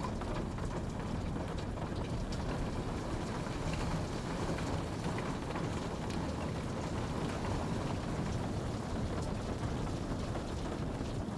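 Steady rainfall, a continuous even hiss with scattered individual drops ticking on a surface.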